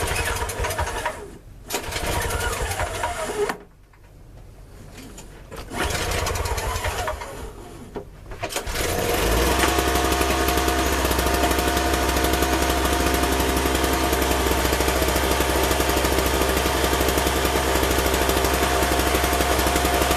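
MTD snowblower engine on a cold start. It cranks in three short tries, catches about nine seconds in and then runs steadily.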